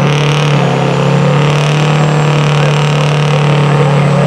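Pulling truck's engine running loud at high, steady revs, its pitch held nearly constant.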